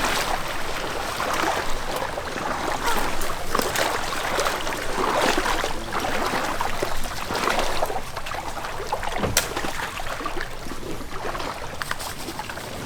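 Splashing, sloshing water around a small boat pushing through a flooded field and breaking thin ice, in uneven surges with scattered cracks. A sharp knock comes about nine seconds in.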